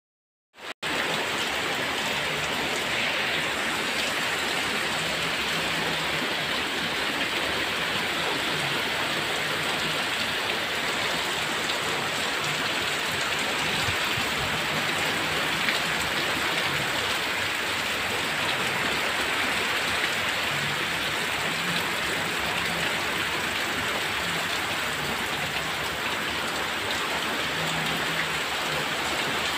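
Heavy rain pouring down steadily onto grass, plants and wet ground, an even hiss that starts abruptly just under a second in.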